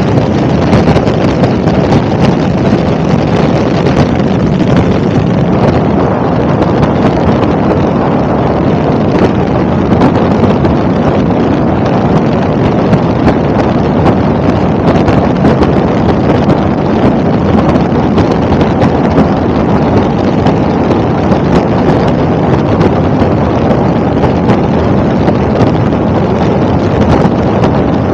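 Helicopter in flight: a loud, steady rumble, with wind buffeting the microphone.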